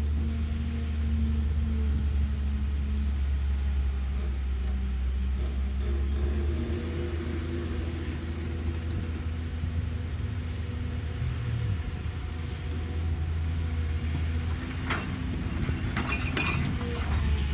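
Cat excavator's diesel engine running steadily, its note shifting about six seconds in, with a few short metallic knocks near the end.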